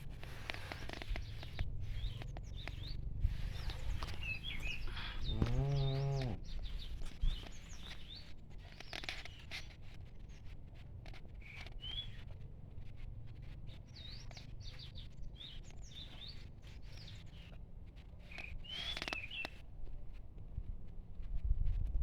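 Small birds chirping throughout, with one short low moo from a cow about six seconds in.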